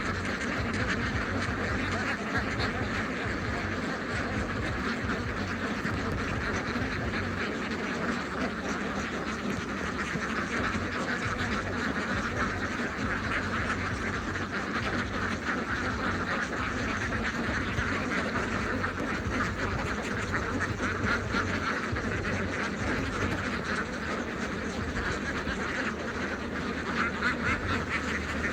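A large flock of domestic ducks quacking continuously, many calls overlapping into a steady chorus.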